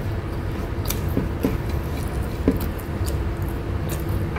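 Close-up eating sounds: chewing with small wet mouth clicks and fingers picking food off an enamel plate, scattered through, over a steady low hum.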